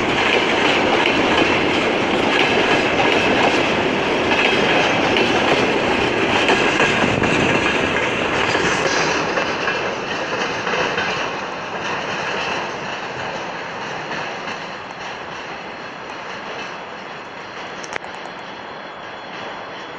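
Freight train of railway tank cars rolling past, its wheels clattering over the rail joints. The sound is loud for the first half and then fades steadily as the train draws away.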